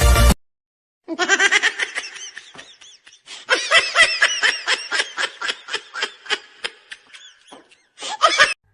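Laughter: a long run of quick, high-pitched laughing pulses starting about a second in, fading toward the middle, then picking up again and ending in a short burst that cuts off suddenly.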